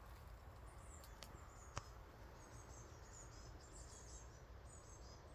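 Faint, high songbird chirps in quick short groups over a low background rumble, with a single sharp click a little under two seconds in.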